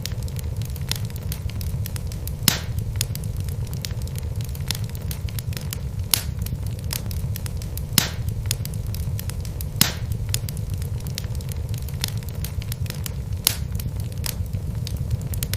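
Wood fire crackling in a fireplace: a steady low rumble of burning logs with a scatter of small crackles and a few sharper pops every few seconds.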